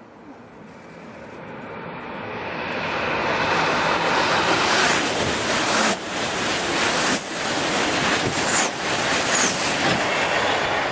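Shinkansen bullet train approaching and passing at speed: a rush of air and running noise that builds over about four seconds, then stays loud, dipping briefly a few times as it goes by.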